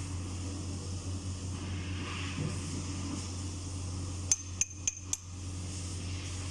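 Four quick hammer strikes on metal with a short bright ring, a little over four seconds in, over a steady low hum.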